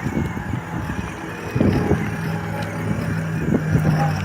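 A steady low motor hum that starts about two seconds in, with a few knocks before it.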